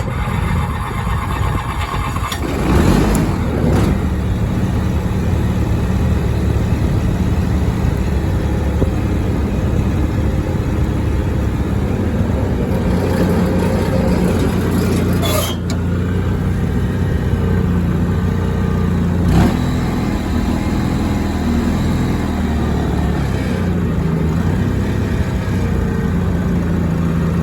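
Honda 4514 lawn tractor engine starting from cold: it catches about three seconds in and then runs steadily. Two short knocks come partway through.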